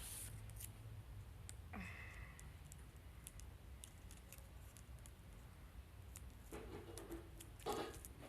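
Faint scattered clicks and small handling noises of adhesive tape and paper being worked by hand, with a short rustle about two seconds in and two louder rustles near the end.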